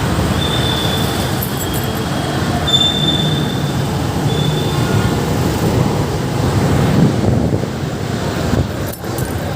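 Wind rushing over the microphone and traffic noise during a bike ride, with three short high-pitched squeals in the first five seconds.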